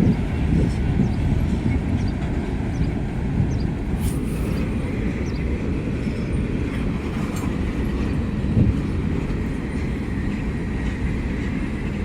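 Freight train's cars rolling slowly past on the rails: a steady rumble of wheels and cars, with a few faint clicks.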